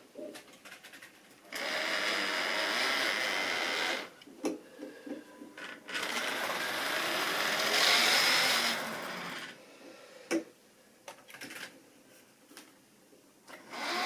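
Model railway train running on the track, its small electric motor whirring with the rattle of wheels on rail. It runs loud for about two and a half seconds, then again for about three and a half seconds, with quieter clicking between and after.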